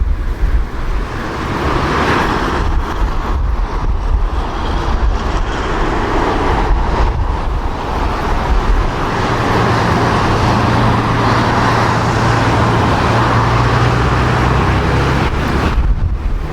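A jet airliner's engines give a steady noise while strong gusty wind buffets the microphone with a heavy low rumble. A steady low engine tone joins in about halfway through.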